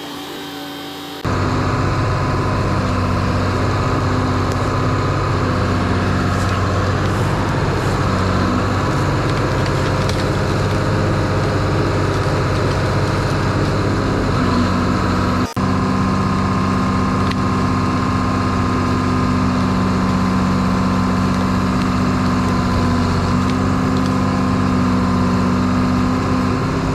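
Engine of a tracked machine running steadily at a constant speed. It comes in abruptly about a second in and has a split-second break about halfway through.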